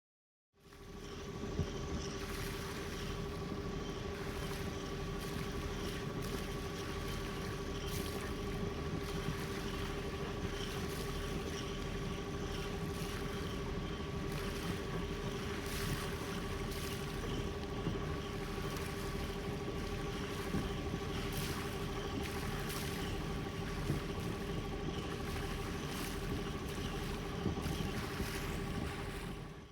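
A boat under way: a steady hum of constant pitch over an even rush of water and wind noise, with a few light clicks.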